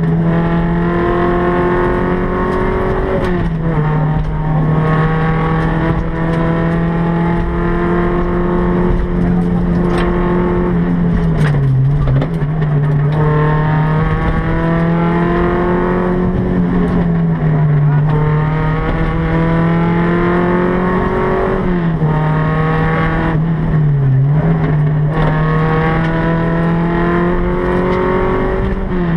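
Volkswagen Golf Mk1 rally car's four-cylinder engine running hard at high revs, heard from inside the stripped cabin. The revs dip briefly and come straight back up about five times between long pulls.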